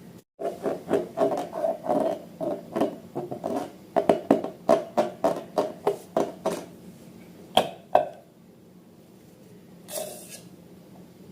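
Slime being squished and worked by hand: a quick run of wet squelches, about three a second, then two sharp clicks.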